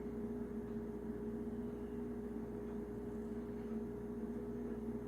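Steady low hum with a faint even hiss and no distinct events: room tone.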